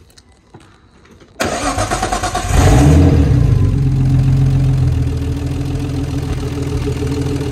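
Nissan RB25DET turbocharged straight-six cranking on the starter for about a second, then catching, flaring up loudly and settling into a steady idle. It fires and runs on a replacement cam angle sensor after the old sensor's shaft broke.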